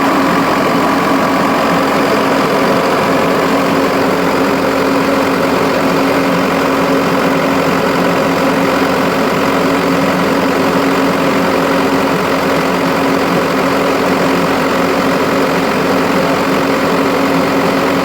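Bell logging machine's diesel engine running steadily, started so the freshly recharged air-conditioning compressor can be tested.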